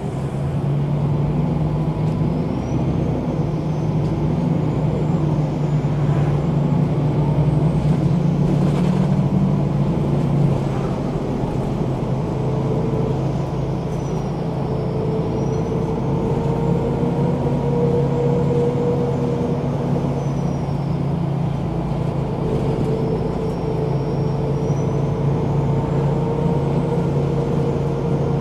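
MAN NG 313 articulated city bus under way, its diesel engine running steadily with a faint high whine that rises and falls in pitch several times.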